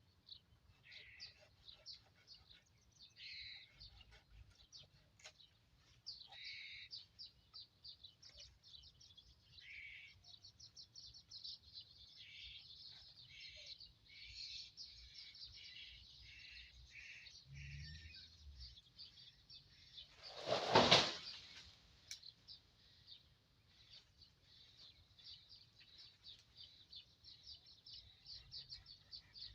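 Small birds chirping and twittering in quick, high repeated notes, with one brief loud rush of noise about two-thirds of the way through.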